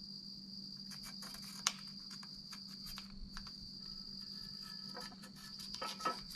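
A cricket trilling steadily in the background, faint, over a low electrical hum, with a few light clicks and one sharper knock about a second and a half in.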